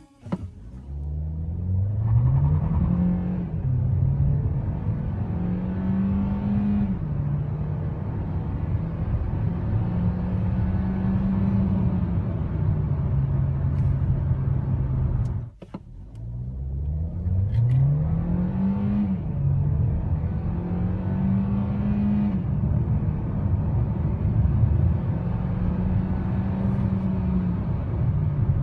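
2017 Hyundai Elantra Eco's turbocharged 1.4-litre four-cylinder accelerating hard from a standstill. The engine pitch climbs and falls back at each upshift of its dual-clutch gearbox. It cuts off briefly about halfway, then a second full-throttle run starts with the same rising-and-shifting pattern.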